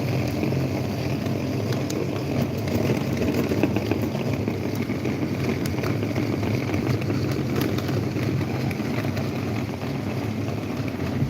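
Electric table fan running steadily: a low motor hum under the rush of air from the blades.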